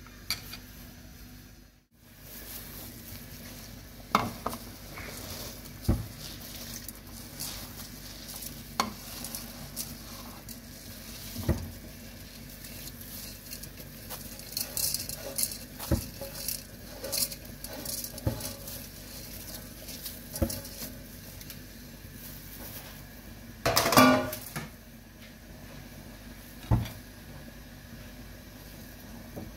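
Food sizzling as it fries in a cooking pot, with a spoon stirring it and knocking and scraping against the pot every second or two. The loudest clatter comes about 24 seconds in.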